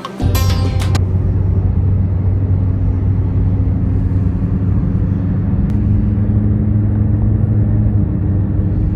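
A loud, steady low mechanical rumble with a constant hum on top, beginning abruptly as the music stops.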